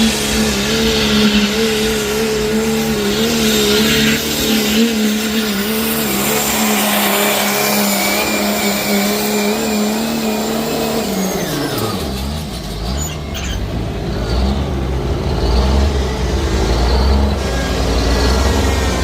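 Turbocharged diesel pickup truck pulling a sled at full throttle, its engine held at high, steady revs with a turbo whistle above it. About eleven seconds in, the revs drop away and the engine settles to a low rumble as the pull ends.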